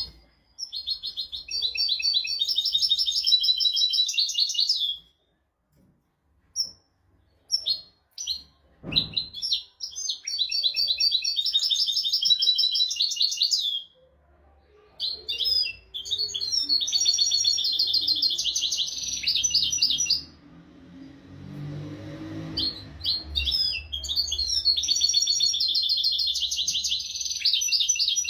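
European goldfinch singing: four long song phrases of rapid twittering trills, each about four seconds, with short calls in the pauses between them.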